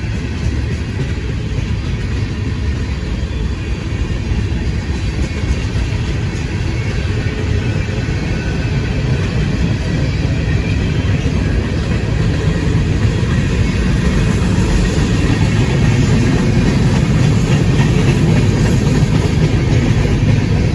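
A train rolling past with a steady rumble of wheels on rail. It grows a little louder toward the end.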